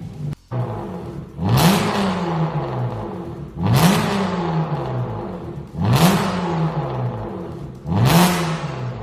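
Hyundai Grandeur IG with an aftermarket variable-valve exhaust, revved in stationary blips: four sharp rises in engine pitch about two seconds apart, each falling away slowly back toward idle.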